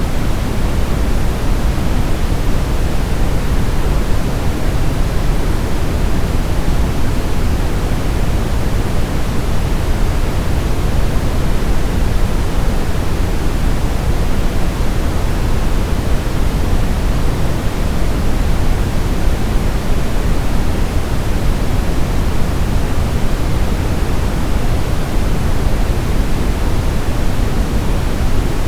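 Steady synthetic pink noise: an even, unchanging hiss with most of its weight in the low end.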